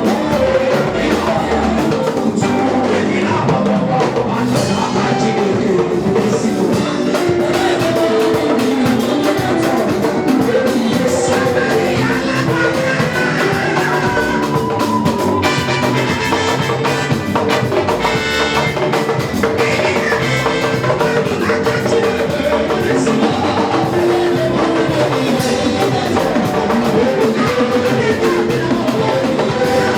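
Live gospel worship band music with a drum kit playing a steady beat.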